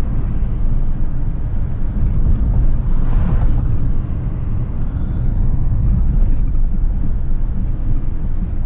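Steady low rumble of a vehicle being driven, road and engine noise heard from inside the cab, with a short swell of hiss about three seconds in.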